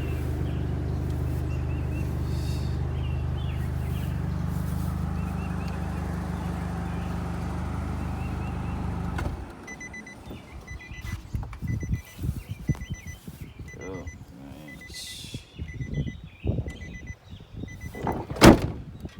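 Wrecked Nissan's engine idling steadily, then cutting off suddenly about nine seconds in. After that the car's warning chime beeps over and over, with scattered knocks and one loud thunk near the end, like the damaged door being pushed shut.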